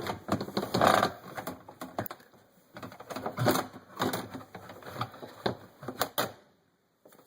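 Plastic dishwasher filter parts clicking and clattering as they are handled and fitted back into place, in quick irregular knocks that stop near the end.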